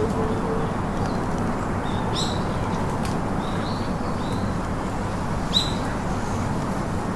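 Short high bird chirps, each well under a second, come every second or so over a steady outdoor hiss; the sharpest two are about two seconds in and near the end.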